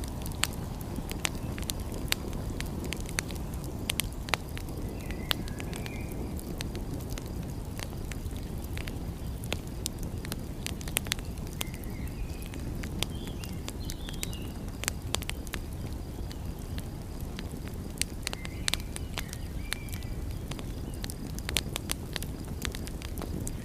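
Wood fire crackling, with frequent sharp pops, over a steady low rush of sea surf; faint bird chirps come a few times.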